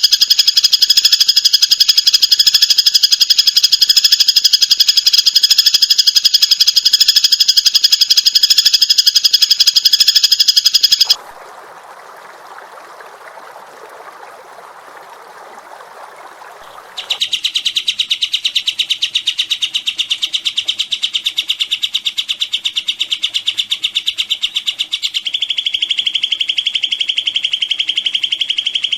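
Songbird singing a loud, very rapid, buzzing trill of evenly repeated notes, broken about eleven seconds in by some six seconds of a much quieter, lower hiss, after which a second fast trill starts at a lower pitch.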